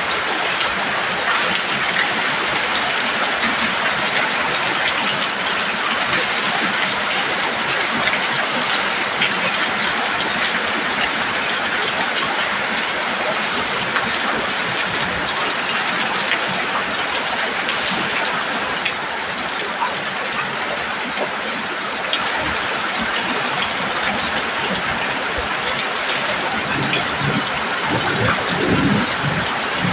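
Heavy rain pouring steadily onto a roof, a dense, even patter. Near the end a brief low rumble rises under it.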